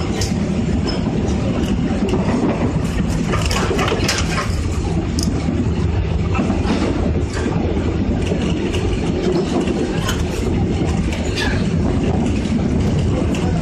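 Seoul Metro electric train with a Mitsubishi GTO VVVF drive running between stations, heard on board: a steady rumble of wheels on rail, with scattered clicks and rattles.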